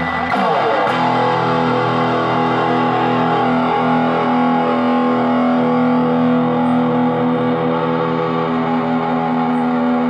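Electric guitar played through a RAT-clone distortion pedal: after a brief falling glide in the first second, a distorted chord rings out and is held, sustaining steadily.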